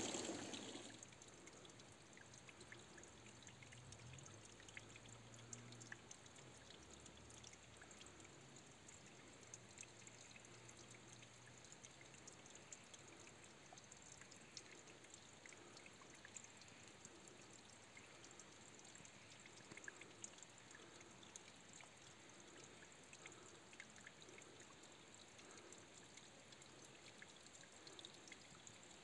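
Near silence with a faint, steady trickle of running water and scattered small ticks.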